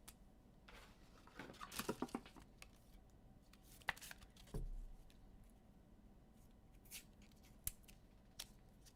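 Faint handling of trading cards and their packs: scattered soft rustles and sharp little clicks, with a low thump about four and a half seconds in.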